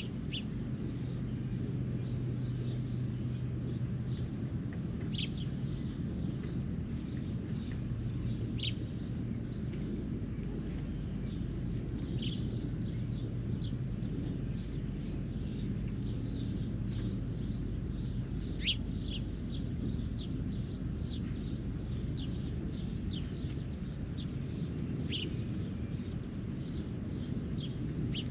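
Birds calling with many short, quick, falling chirps scattered throughout, over a steady low background rumble.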